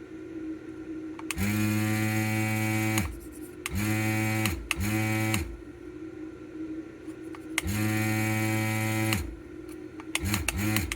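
Electric desoldering tool's vacuum pump switched on and off in bursts: a pitched motor drone with hiss, two longer runs of over a second and several short blips. The tool is not sucking properly, which is taken for a clogged tip.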